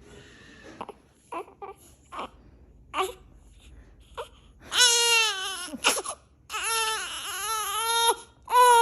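Newborn baby crying: a few short fussing sounds, then from about five seconds in loud, high-pitched wailing cries about a second and a half long, one of them wavering in pitch.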